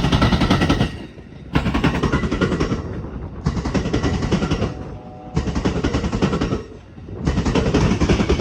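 Steel wheels of an Amtrak San Joaquin passenger train clattering over a railroad diamond crossing: rapid strings of sharp clicks in stretches of about a second and a half, broken by brief quieter gaps as each car's wheelsets pass.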